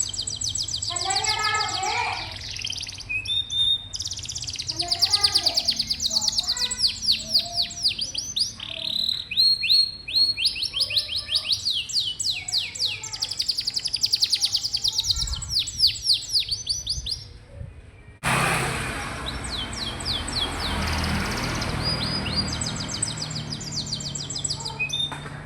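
Domestic canary singing fast rolling trills of rapidly repeated high notes, phrase after phrase. About two-thirds of the way through, a steady hiss comes in suddenly under the song, which carries on more faintly.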